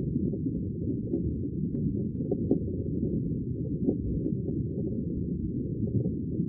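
Sea water giving a steady, muffled low rush with no breaks, with a few faint small clicks through it.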